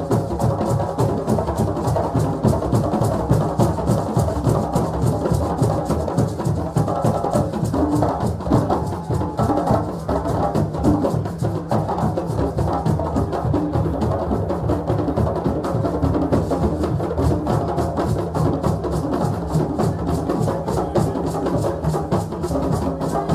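A group of drums playing a fast, steady rhythm with many strokes a second, without a pause.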